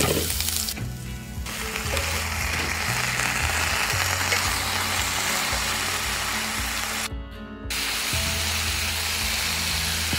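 Vegetables sizzling as they fry in a hot pan, over background music with steady low notes. The sizzle drops out briefly about a second in and again about seven seconds in.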